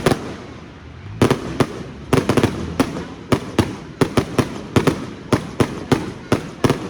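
Fireworks going off: an irregular series of sharp bangs, sometimes several in quick succession, over a steady background hiss.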